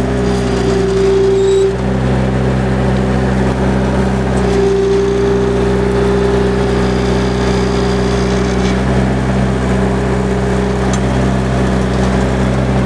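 1999 Bobcat 331 mini excavator's four-cylinder diesel engine running steadily, with a whine from its hydraulics that comes in twice as a function is worked, briefly at first and then for several seconds.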